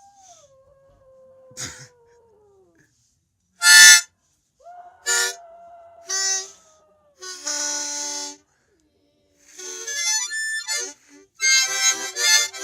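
A harmonica blown in about six short chordal bursts, from about four seconds in, while a dog howls along in long drawn-out howls. The first howl slowly falls in pitch, a later one holds steady, and another starts near the end.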